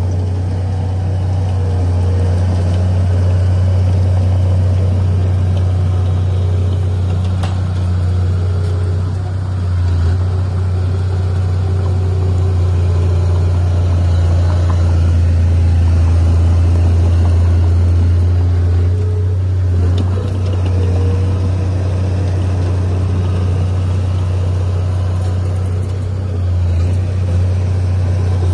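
Heavy diesel engine of earthmoving equipment, a bulldozer or dump truck, running steadily with a deep low drone that eases briefly near the end.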